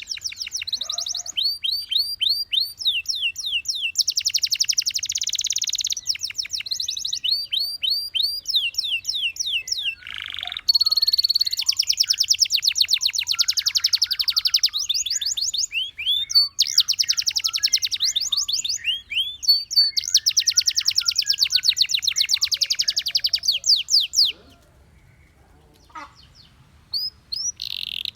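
Canary song: fast runs of repeated chirping notes and rapid rolling trills, one phrase after another, high-pitched. The song breaks off for a couple of seconds near the end, then starts again.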